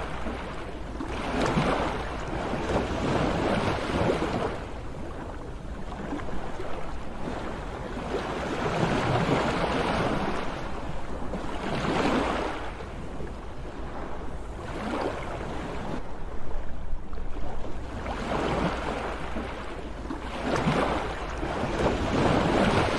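Sea waves breaking and washing in, each surge swelling and falling away a few seconds apart, over a steady low rumble of surf.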